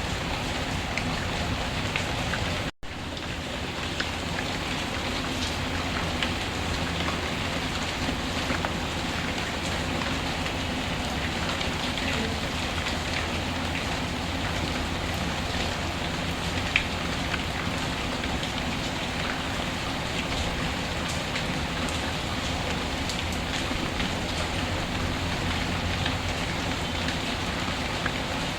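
Steady rainfall with scattered crackles and pops from a wood fire. The sound cuts out for a split second about three seconds in.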